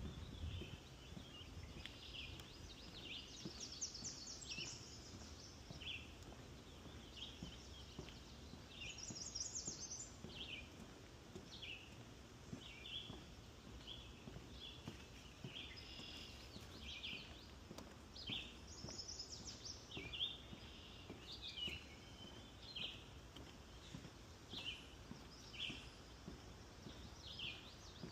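Songbirds calling in a spring swamp forest: a run of short, repeated chirps goes on throughout, and a higher, quick fluttering song comes in three times.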